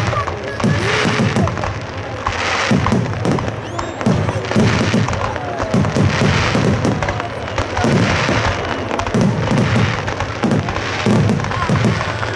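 Aerial fireworks shells bursting in quick succession: a dense run of low booms, with bursts of crackle from glittering stars every second or two.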